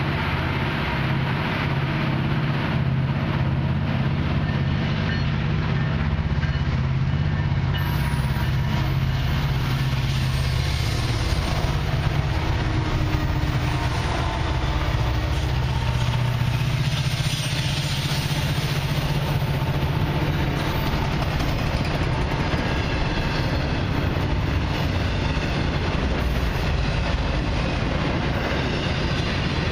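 A freight train led by three CN diesel locomotives passes close by: a steady low engine drone as the locomotives go past, which fades after about ten seconds into the rolling clatter of autorack and tank cars going by.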